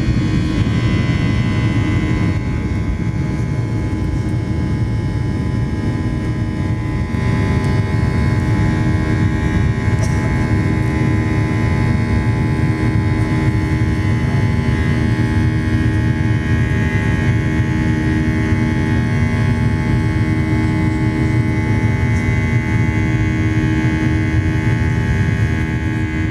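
Boeing 737-800 with CFM56-7B turbofan engines heard from inside the passenger cabin: a steady, loud rumble of engine and airflow with a few steady tones on top, the engines holding an even power setting.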